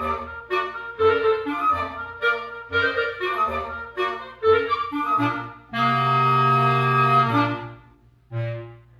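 Woodwind quintet playing a run of short, detached chords, then one long held chord and a single short final chord.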